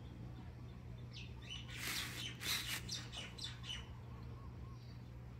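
Birds chirping: a quick run of short, high chirps starting about a second in and lasting a couple of seconds, over a low steady hum.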